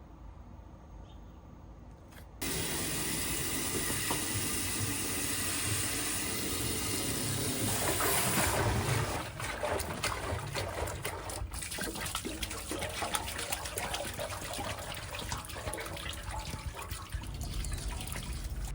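Running water: a steady rushing, splashing noise that cuts in abruptly a couple of seconds in.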